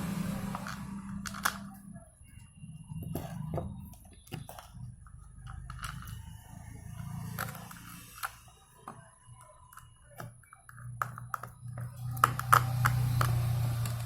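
Scattered clicks and knocks of a plastic extension-board casing and its parts being handled and fitted back together, with a low hum that fades in and out.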